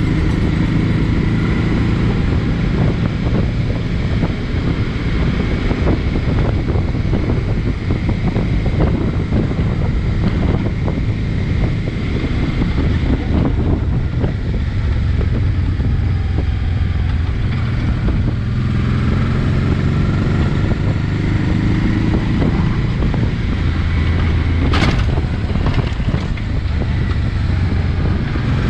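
Honda NT650V Deauville's V-twin engine running steadily under way, with wind noise buffeting the microphone. A single sharp click sounds near the end.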